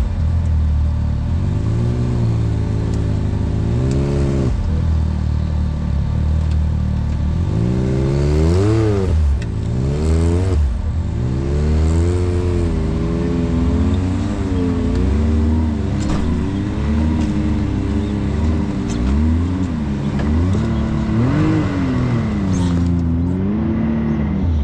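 Side-by-side UTV engine under varying throttle on a trail; its pitch rises and falls again and again as it speeds up and backs off, with a few knocks along the way.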